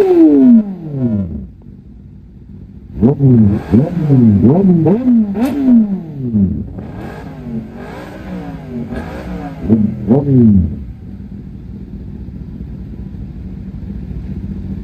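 Superbike engine with a loud exhaust revved in a series of sharp throttle blips, the pitch shooting up and falling away each time, several in quick succession. From about eleven seconds in it settles to a steady, lower engine sound.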